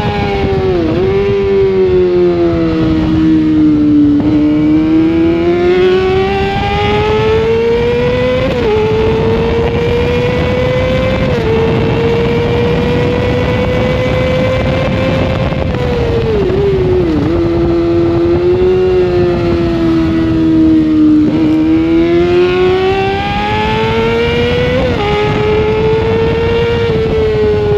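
Sportbike engine heard onboard at racing speed. The revs climb steadily through the gears, dropping slightly at each upshift, and fall off quickly twice under braking, with short blips on the downshifts.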